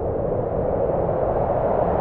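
Strong blizzard wind blowing steadily with a hollow howl, growing a little louder and higher in pitch over the two seconds.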